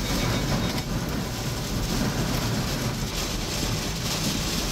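Strong wind blowing: a steady rushing noise with a heavy low rumble.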